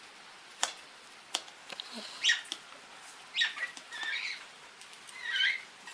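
Caged pet birds giving a few soft, short chirps and squawks, with several sharp clicks or taps in between.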